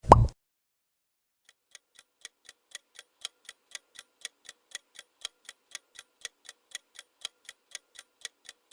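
A short sound effect at the start, then clock-like ticking at about four ticks a second, growing louder over its first second: a quiz countdown timer running while the answer is awaited.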